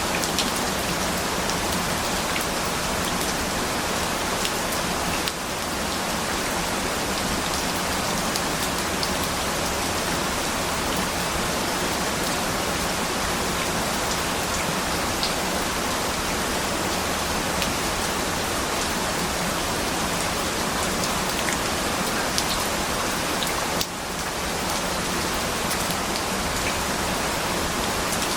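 Steady rain falling, an even hiss with scattered tiny drop ticks, dipping briefly about five seconds in and again near the end.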